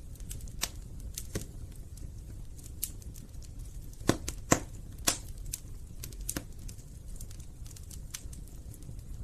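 Wood fire crackling in a fireplace: irregular sharp pops and snaps of varying loudness over a steady low rumble of burning, with a few louder pops close together about halfway through.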